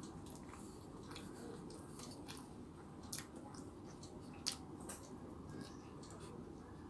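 Someone chewing a crunchy chicken burger: soft mouth sounds with scattered crisp clicks, two louder ones about three and four and a half seconds in, over a steady low background hum.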